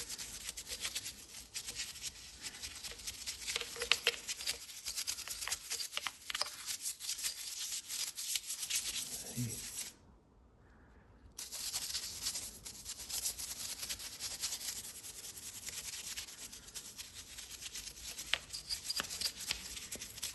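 Brush scrubbing degreaser into the dirty surfaces of an engine, a rapid run of scratchy back-and-forth strokes that stops for about a second and a half midway, then carries on.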